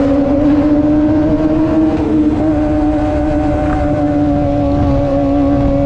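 Kawasaki ZX25R's 250 cc inline-four engine, breathing through an aftermarket racing exhaust, running under way at a steady pitch on a climb. The exhaust note echoes off the surrounding hillsides.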